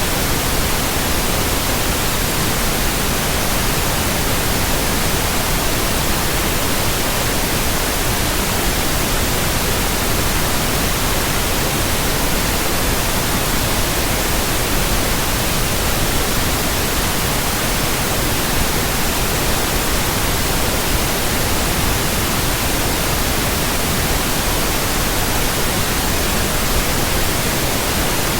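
Steady, unchanging white noise: an even electronic hiss spread across the whole range of pitches, with no rises, breaks or events.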